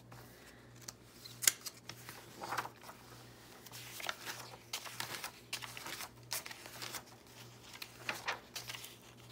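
Glossy magazine pages being flipped and turned by hand: a string of irregular short papery swishes and rustles, with a faint steady low hum underneath.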